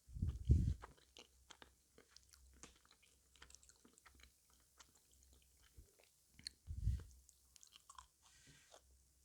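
Close-up chewing and crunching of sweets: many small crunches and mouth clicks, with two heavier low thumps about half a second in and again near seven seconds in.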